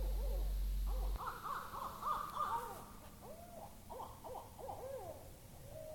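An owl calling in a rapid, excited run of short rising-and-falling hoots that overlap one another. A steady low hum sounds under the first second and cuts off suddenly.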